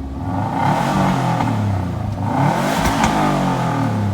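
A 2012 Subaru Impreza WRX STI on its stock exhaust accelerating hard, its turbocharged flat-four engine rising in pitch. The sound is loudest about three seconds in.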